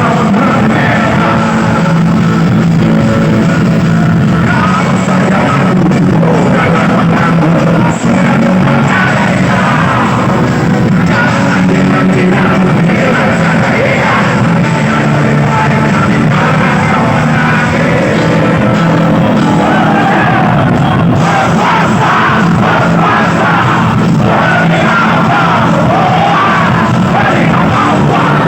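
Live rock band playing with a sung vocal, and crowd voices shouting and singing along in the mix.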